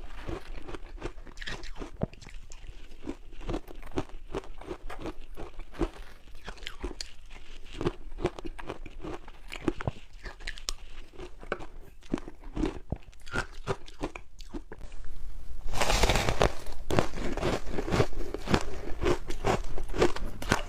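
Close-miked crunching and chewing of ice cubes dusted with matcha powder: a steady run of irregular crisp crunches, turning louder and denser for the last five seconds or so.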